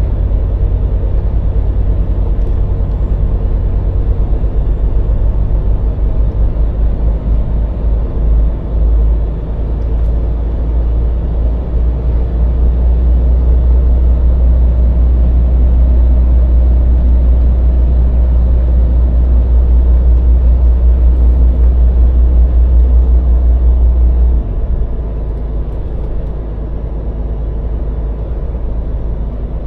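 Scania lorry's diesel engine running with a deep, steady rumble; it grows louder partway through, then drops off suddenly near the end.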